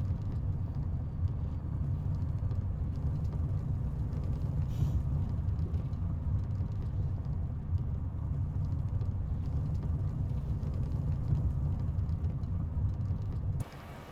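Steady low rumble of a Volvo FH 500 hp truck under way, its diesel engine and road noise running evenly, cutting off abruptly near the end.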